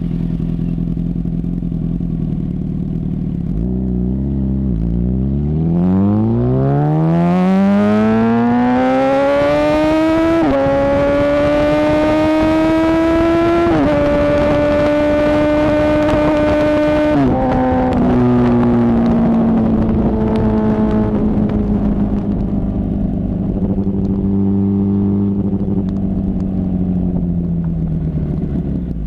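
2008 Yamaha R1 inline-four running through a Toce T-Slash slip-on exhaust with the catalytic converter deleted, heard from onboard: after a low steady note it revs up hard from about five seconds in, with quick pitch drops at two upshifts around ten and fourteen seconds. The throttle closes at about seventeen seconds and the engine note slowly falls as the bike slows.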